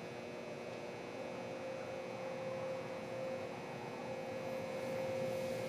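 Steady electrical hum with a faint background hiss.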